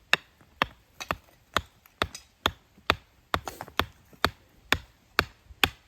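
A hand tool striking hard, stony ground over and over, about two sharp blows a second.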